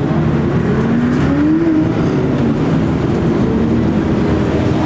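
Car engines running at idle, with one engine revving up briefly about a second in.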